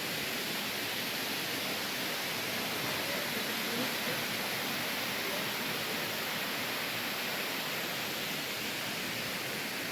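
Waterfall: falling water makes a steady, even rushing hiss.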